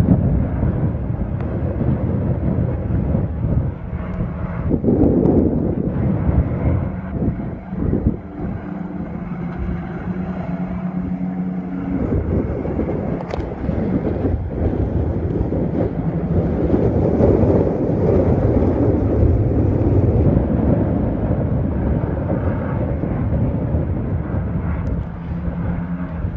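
Several mini-truck racing engines running hard at speed, swelling and fading as the field goes by, with a quieter stretch around the middle.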